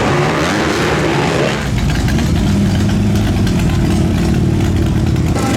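Motorcycle engine idling steadily, its low, even running taking over about a second and a half in after a mixed noisy passage, and changing abruptly just before the end.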